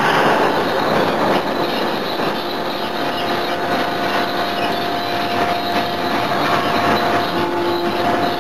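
Steady machinery din in a forge shop around a CNC forging hammer, with a faint steady whine and a few light knocks; no heavy hammer blow falls.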